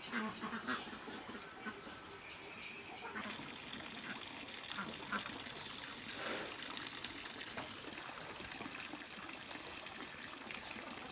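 Chickens clucking briefly, then from about three seconds in a steady trickle of running water.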